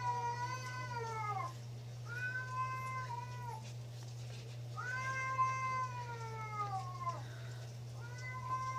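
A cat giving a run of long, drawn-out meows, each holding a steady pitch for a second or two and then sliding down at the end, with short pauses between them.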